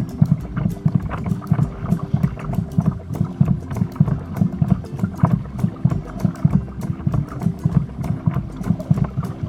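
Choppy water slapping and splashing against a kayak's hull in rough weather, with wind buffeting the microphone into a constant low rumble.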